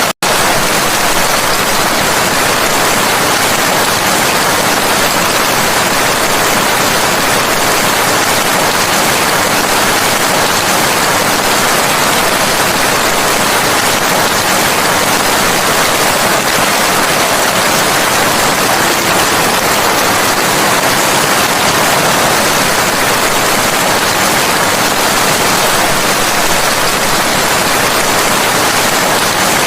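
Steady heavy rain, a dense even hiss with no single drops standing out. It cuts out for an instant just after the start, then carries on unchanged.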